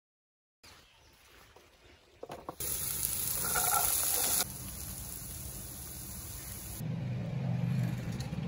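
Chopped green beans sizzling in hot oil in a pan, with a loud hiss for about two seconds that then suddenly drops to a quieter steady hiss.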